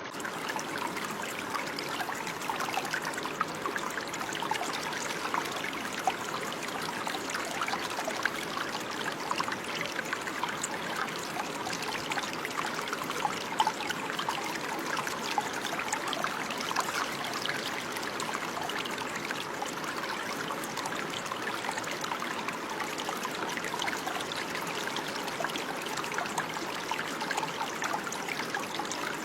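Running water: a small stream trickling and splashing steadily over stones, with fine bubbling detail.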